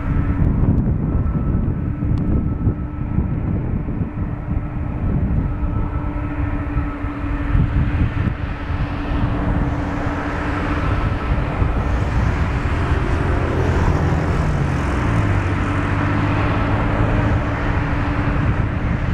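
Boeing 777-200 jet engines running at taxi power with a steady whine, under heavy wind rumble buffeting the microphone. A deeper hum joins about two-thirds of the way through.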